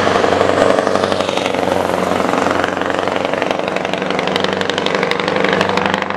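Scania R620's 16-litre V8 diesel running steadily through a straight-pipe exhaust, with a fast, even firing pulse.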